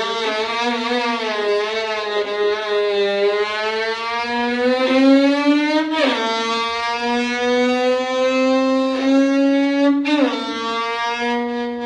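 Violin bowed to imitate a car engine revving up through the gears. A sustained low note climbs slowly in pitch, then drops abruptly like a gear change twice, about halfway through and again near the end, before climbing again.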